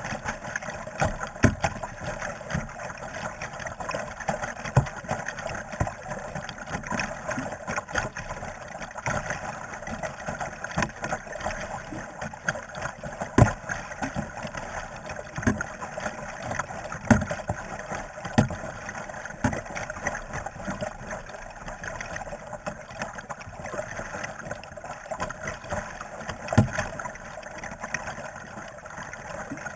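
Kayak paddling: the paddle dips and splashes in the water, with irregular knocks a second or two apart over a steady wash of water.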